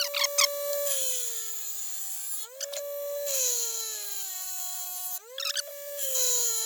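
Power grinder sharpening a steel mower blade. The motor whine drops in pitch each time the blade is pressed to the wheel, with a grinding hiss, and rises again as it is lifted off: three passes.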